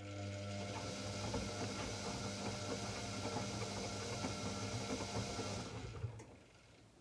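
AEG Electrolux Lavamat L74810 washing machine running: a steady low hum with a rushing hiss, stopping about six seconds in, followed by a single click.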